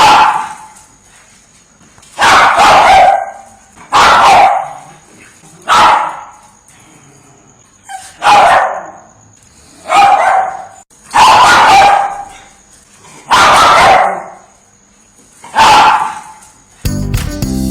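A single dog barking, one bark every couple of seconds, about nine in all, with quiet gaps between. Music begins near the end.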